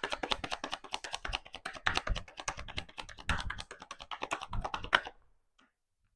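A deck of tarot cards being shuffled: a rapid, dense clatter of card edges that stops about five seconds in.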